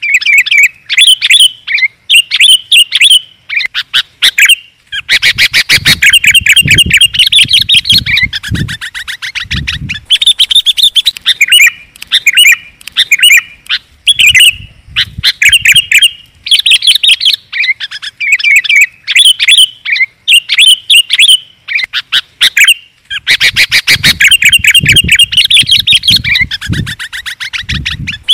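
Sooty-headed bulbul (kutilang) song played as a lure or master recording: loud, bubbling chirps and warbled phrases broken by bouts of fast, harsh chattering. A similar chattering passage comes round twice.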